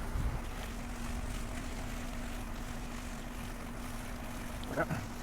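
Steady background noise with a constant low hum, with a short vocal sound near the end.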